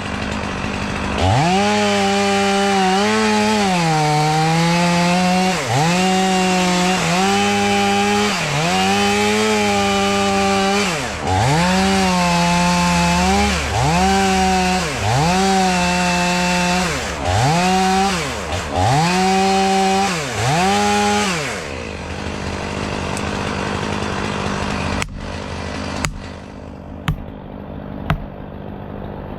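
Two-stroke chainsaw run in a series of short bursts at high revs, the engine note sagging and recovering again and again as it cuts into wood. About 22 seconds in the chainsaw drops to a quieter idle, with a few sharp knocks near the end.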